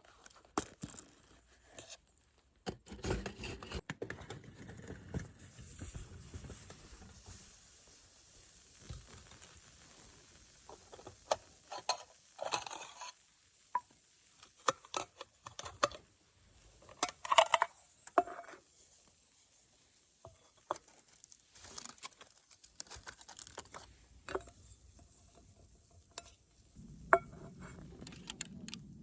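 Camp cookware and utensils being handled: scattered clinks, knocks and scrapes at irregular times, with the loudest clinks about two-thirds of the way in and near the end.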